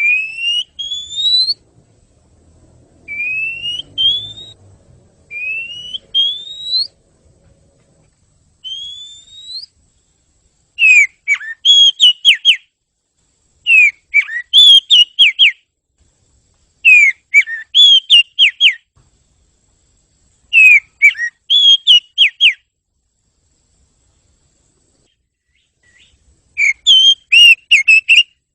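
Oriental magpie-robin (kacer) singing: a series of clear rising whistles. Then, from about eleven seconds in, bursts of quick, falling whistled notes repeat every few seconds.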